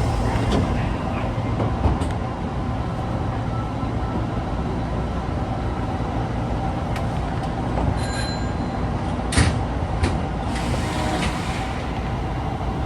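Osaka Metro 22-series subway car 22962, a car singled out for its unusual running noise, heard while moving: a steady rumble of motors and wheels, with brief high-pitched tones about eight seconds in and a sharp click shortly after.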